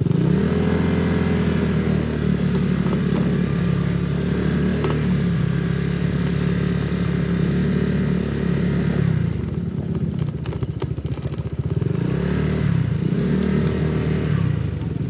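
Honda PCX 160 scooter's single-cylinder engine running under riding, its pitch rising and falling several times as the throttle opens and closes, easing off about two-thirds of the way through before picking up again.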